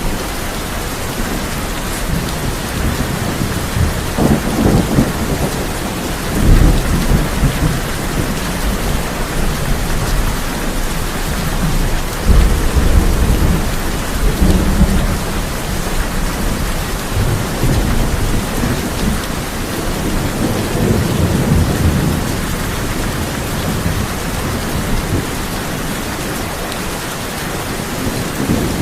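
Steady heavy rain drumming on a tin roof, with thunder rumbling several times, the loudest rolls about six and twelve seconds in.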